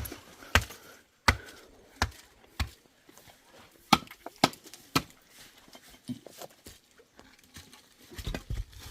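A run of sharp chopping blows, spaced a little over half a second apart, thinning out and growing weaker after about five seconds.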